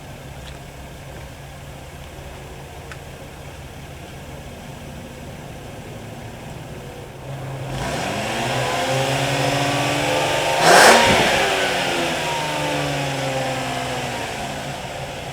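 The 2001 Lexus ES300's 3.0-litre DOHC V6 idles steadily, then revs once about seven seconds in. It climbs over about three seconds to a peak marked by a brief loud burst, then falls slowly back toward idle.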